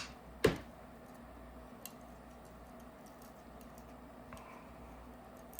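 One sharp click about half a second in, then a few faint ticks: small metal screws and a driver being handled while screwing a spring/magnet assembly into a paintball marker's trigger frame.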